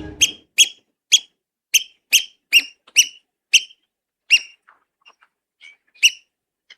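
African black oystercatchers piping in a territorial dispute: a run of short, sharp, high calls, about two a second. After about four and a half seconds the calls thin out and grow faint, with one last loud call near the end.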